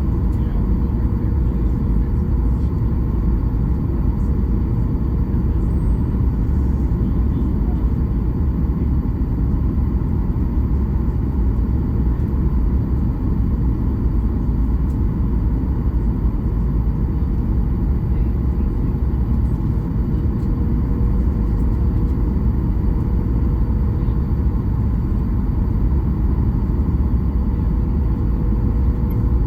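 Steady cabin drone inside a Boeing 737 MAX-8, heard from a window seat behind the wing: a loud, even low rumble of airflow and its CFM LEAP-1B engines, with a faint steady tone above it.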